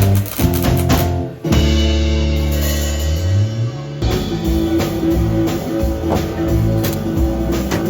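Blues band music with electric guitar and drum kit. There is a brief break about a second and a half in, then a held chord with a sliding bass note, and the beat picks up again about four seconds in.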